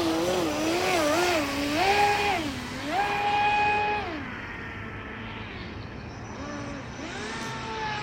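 Water-cooled ADS500M electric motor of an HK Pursuit RC boat whining under throttle. Its pitch wavers up and down, holds high for about a second around the middle, then falls to a quieter, lower whine and climbs again near the end.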